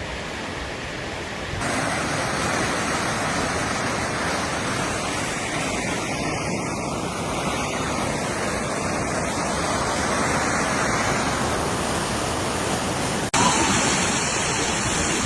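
Rushing floodwater: a loud, steady hiss of fast-moving water, with no distinct events. It changes abruptly about a second and a half in and again near the end.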